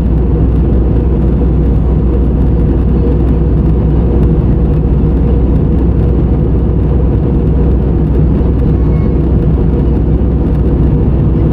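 Steady airliner cabin noise in flight: the engines and rushing air make an even low rumble that does not change.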